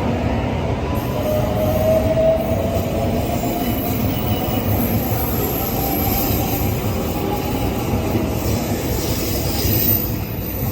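A train running on rails: a steady, loud low rumble with a faint rising whine or squeal about a second or two in.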